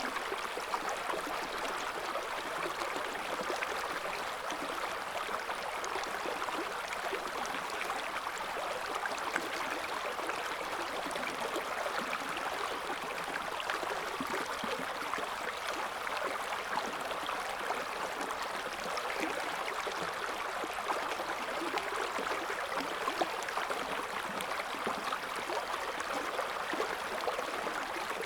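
River water flowing and gurgling over stones in a steady, continuous babble.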